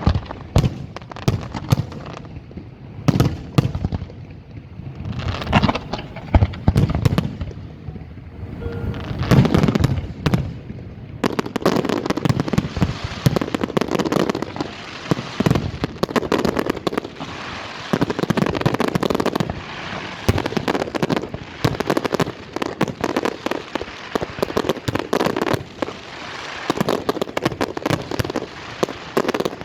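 Fireworks display: repeated sharp bangs and booming bursts, turning into dense, near-continuous crackling from about twelve seconds in.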